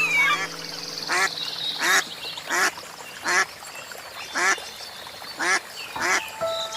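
A duck quacking, about seven separate quacks in a loose series, each under a second apart.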